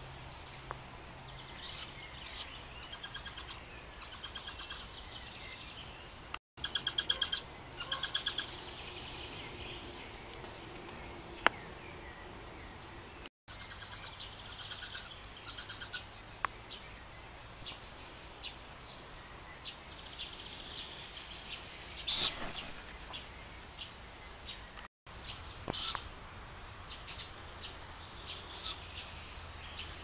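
Birds chirping: short, high calls scattered throughout, with a quick run of rapidly repeated notes about seven seconds in.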